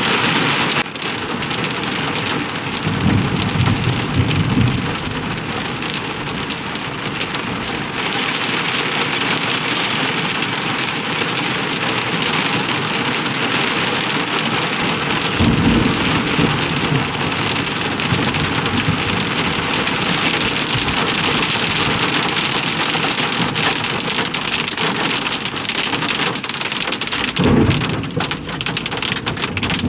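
Heavy thunderstorm rain pelting steadily, with dense drop hits throughout. Thunder rumbles three times: a longer roll a few seconds in, and shorter ones about halfway through and near the end.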